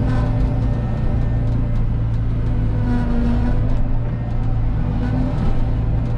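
Cat 313 excavator's diesel engine running steadily under work, with a hydraulic tone that rises and drops in short stretches as the controls are worked.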